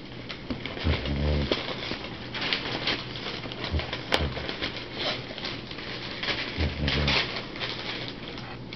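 A 12-year-old dog snoring in its sleep: two short, low snores about a second in and near the end, with noisy breathing between. A single sharp click about four seconds in.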